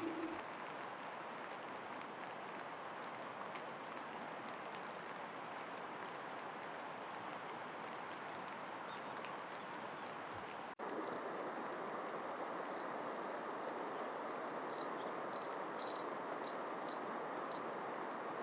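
Steady outdoor background hiss. After a cut about eleven seconds in, a wild bird gives a series of short, high chirps, coming thicker near the end.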